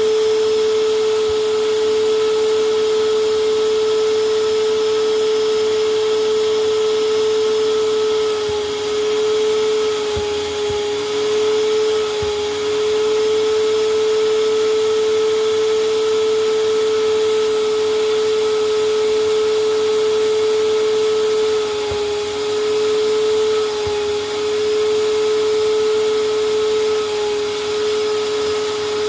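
Vacuum cleaner running steadily, a loud hum over a hiss of rushing air, cleaning a sofa bed. Its pitch and level dip slightly now and then, a little past a third of the way in and again about three quarters through.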